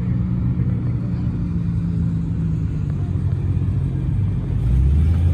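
A car engine running with a steady low rumble, turning deeper and louder about four and a half seconds in.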